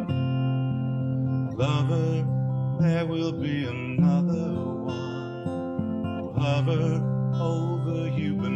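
Acoustic guitar strummed in a slow ballad, with a solo voice singing over it from about a second and a half in.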